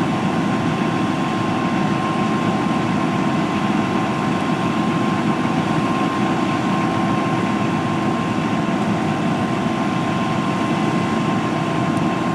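A vehicle engine running steadily: a constant low rumble with a faint steady whine, unchanged in level throughout.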